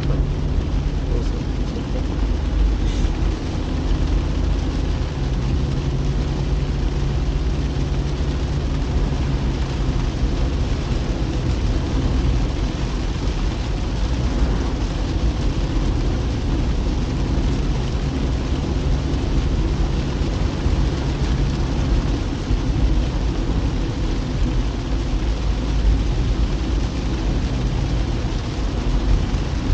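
Car driving steadily on a wet road in the rain: a constant low engine and tyre rumble under an even hiss of rain and water spray.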